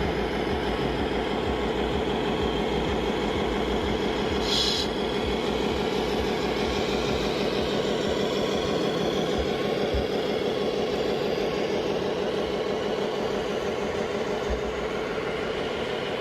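Steady mechanical running of radio-controlled model trucks and machines, an even drone with a fine rapid pulse, and a short hiss about four and a half seconds in.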